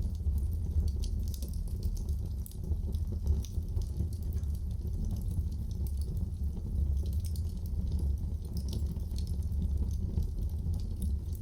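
Wood fire in a fireplace crackling, with frequent small sharp pops and snaps over a steady low sound of the burning flames.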